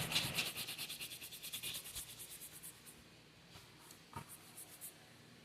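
A hand brush buffing a leather holster with quick rhythmic strokes, working the freshly applied leather dressing up to a shine. The strokes fade out after about three seconds, followed by a couple of faint knocks.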